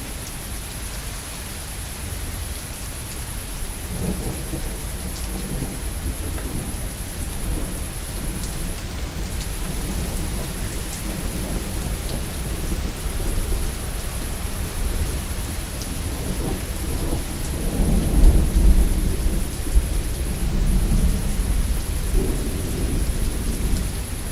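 Steady heavy rain with rolling thunder. Low rumbles come and go from about four seconds in, and the loudest roll arrives about three-quarters of the way through.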